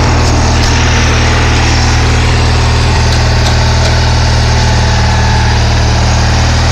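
Bolens garden tractor engine running steadily, a loud even drone with a low hum.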